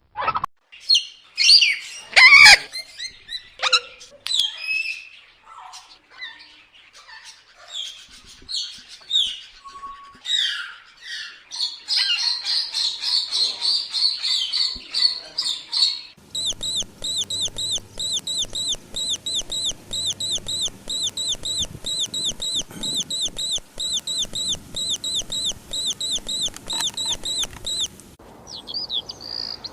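Birds chirping and calling in a string of different songs: varied chirps and whistles, then a dense trill, then a quick call repeated evenly for about twelve seconds that cuts off abruptly before other chirps start.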